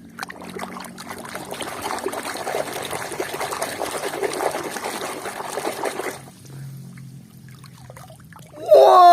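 Water splashing and trickling as a muddy toy vehicle is washed by hand in a basin of water, for about six seconds. Near the end a loud pitched tone sliding steadily downward begins.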